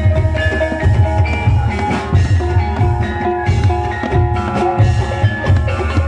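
Javanese gamelan-style barongan accompaniment: a steady low drum beat, about two strokes a second, under ringing struck-metal melody notes.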